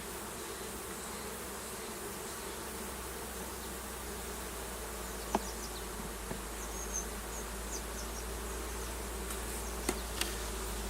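Steady buzzing of a mass of honeybees from a swarm, with a few sharp clicks about five seconds in and near the end.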